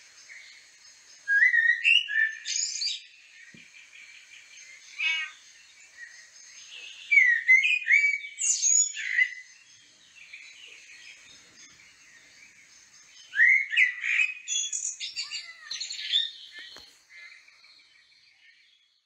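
A songbird singing in three loud phrases of quick chirps and rising whistles, with a short call between and fainter high twittering in the pauses. It dies away near the end.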